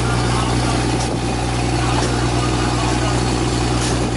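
A fishing boat's engine running steadily, a low, even drone under a constant hiss.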